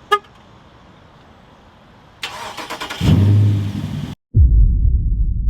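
A short horn chirp, then a Dodge Charger's Hemi V8 cranked over by the starter and catching into a loud start-up rev; after a brief cut, the engine runs with a loud deep rumble that slowly settles.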